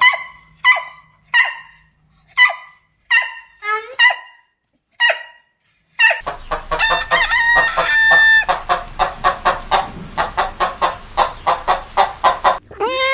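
Chickens calling: about eight short, separate calls over the first six seconds, then a fast, continuous run of clucking and cackling with a few held notes.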